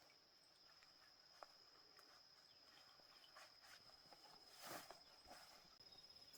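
Faint outdoor ambience: a steady high-pitched insect drone, like crickets, with scattered small rustles and one slightly louder rustle a little past halfway.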